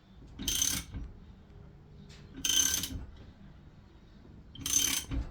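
Socket ratchet clicking in three short bursts about two seconds apart, a wrench being swung to turn the crankshaft of a freshly rebuilt Subaru EJ20 engine by hand.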